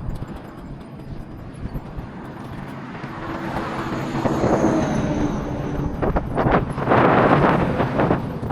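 A motor vehicle approaching along the road, its engine and tyre noise building from about three seconds in and loudest near the end.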